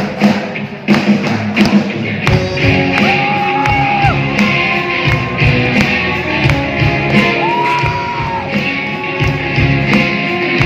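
A male vocalist singing a song live over band accompaniment with drums, holding two long high notes, about three and seven and a half seconds in.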